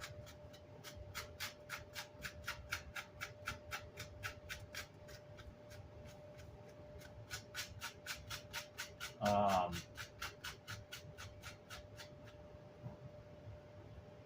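Rapid scrubbing strokes on amplifier grill cloth, about three to four a second, knocking old glue and chipboard residue off the cloth. A short pitched sound cuts in about nine seconds in, and a faint steady hum runs underneath.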